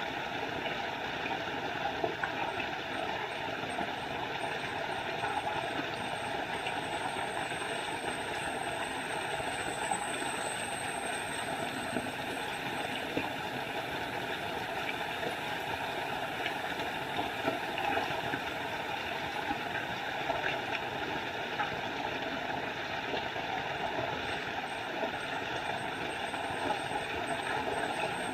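Small forest waterfall running, a steady noise of falling water without a break.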